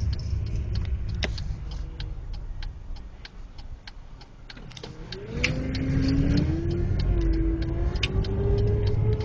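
Inside a 1999 Pontiac Grand Am: engine and road rumble that eases off in the middle, then from about five seconds in the car pulls away with a rising engine whine that climbs in steps as it gathers speed. A steady clicking, about two to three a second, runs throughout.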